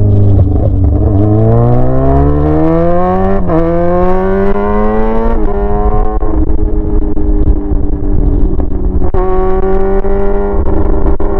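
Yamaha R6's inline-four engine running with no muffler, straight-piped, accelerating through the gears. The revs climb, drop sharply at an upshift about three and a half seconds in, climb again, and drop at a second shift about five seconds in. They then hold steady and begin rising again near the end.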